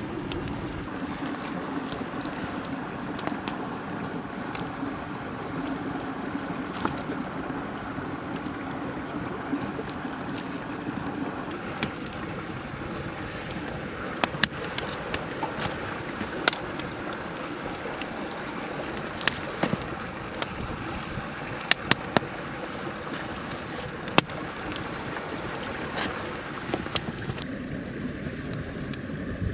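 Mountain stream running steadily, with scattered sharp crackling pops coming in from about halfway through.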